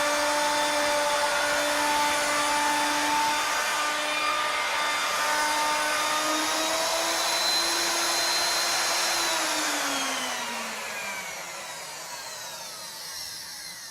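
CNC router spindle running through its cut in a wooden spiral workpiece, with a steady whine that rises slightly in pitch about halfway. About nine seconds in the router switches off and winds down, the whine falling in pitch and fading as that program step ends.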